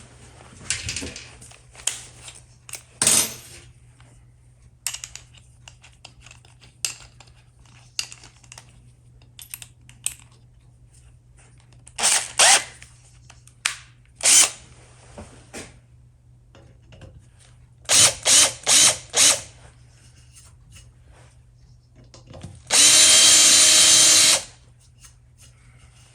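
Workshop handling clatter and a few short loud strokes, then near the end a power drill runs steadily for about a second and a half, cutting a small countersink into a screw hole in a metal exhaust baffle.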